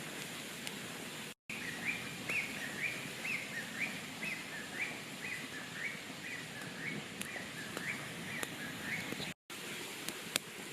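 A bird calling a long run of short, high, repeated notes, about two a second, over a steady outdoor background hiss.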